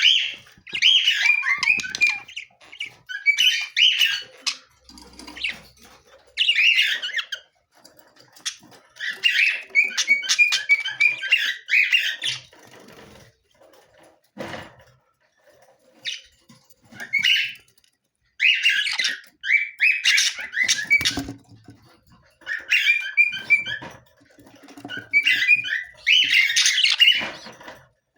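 Budgerigars chattering in bouts of a second or few, with short pauses between and a quieter stretch around the middle.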